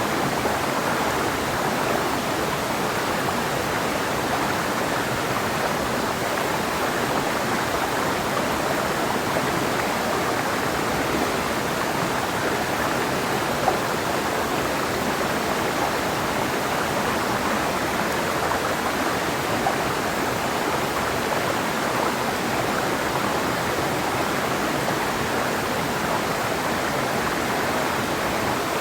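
Clear mountain river flowing over rocks: a steady, even rush of water.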